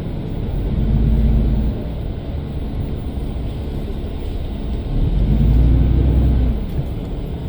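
Road traffic passing: a steady low rumble, with two vehicles going by, the first about a second in and the second, longer and louder, past the middle.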